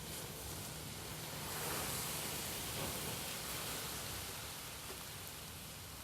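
Campfire burning with a steady rushing hiss of flames, swelling slightly about a second and a half in.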